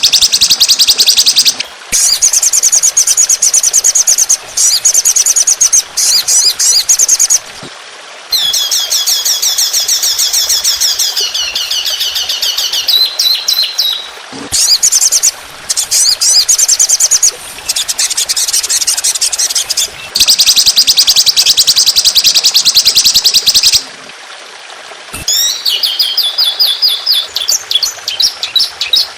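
Recorded songbird song: loud, rapid trills of quickly repeated high notes in bursts of a few seconds with short breaks, the pattern changing from one burst to the next. It is a masteran training track of 'tembakan' rapid-fire song fills, played for cage birds to copy.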